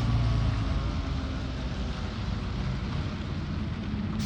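Steady low rumble of a vehicle engine running, under an even hiss of outdoor noise.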